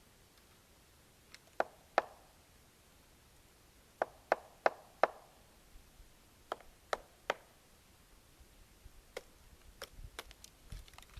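Woodpecker pecking at a tree trunk while foraging: sharp single knocks in short groups, two, then four at about three a second, then three, with fainter taps near the end.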